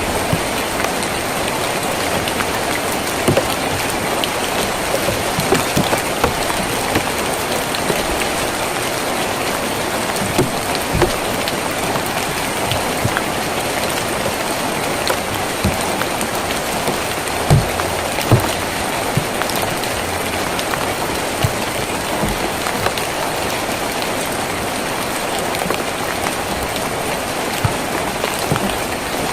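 Steady rain falling on a tin roof, with scattered louder drops striking the metal.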